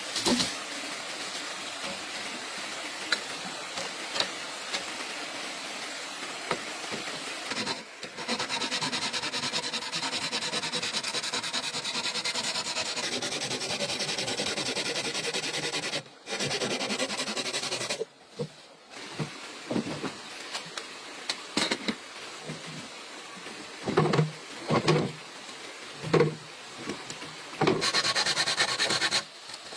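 Steady rasping scrape of a tool working bamboo, broken off and resumed several times, with a few short knocks about three quarters of the way through.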